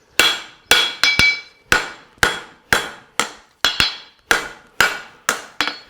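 A farrier's hammer strikes a hot steel horseshoe on an anvil while forging its wedge heel. The blows come about two a second, some in quick pairs, and each rings briefly.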